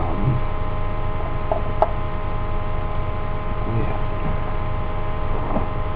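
Steady electrical mains hum with a hiss underneath, and a single sharp click about two seconds in.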